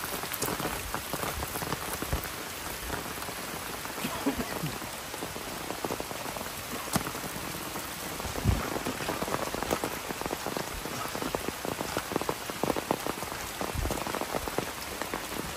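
Falling water pattering steadily on surfaces, a dense hiss dotted with many small drop impacts.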